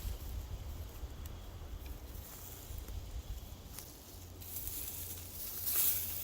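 Rustling in dry fallen leaves, swelling louder near the end, over a low rumble of wind on the microphone.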